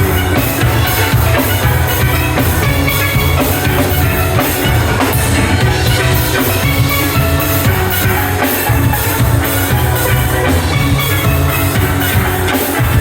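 Steel band playing: steel pans ringing out a melody and chords over a steady drum-kit beat.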